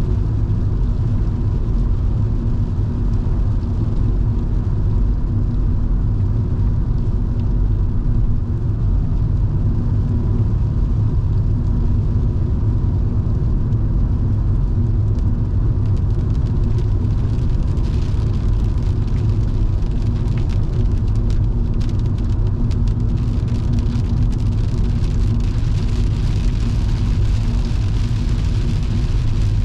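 In-cabin sound of a Volvo V70 2.5T's turbocharged five-cylinder engine and tyres at a steady cruise: a constant low rumble with a steady engine hum. A light crackle and hiss of rain and spray builds from about halfway and is strongest near the end.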